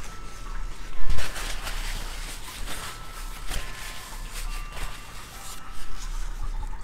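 Chewing a piece of raw 7 Pot Douglah chili pepper close to a clip-on microphone: a run of wet clicks and crunches, with a louder thump about a second in.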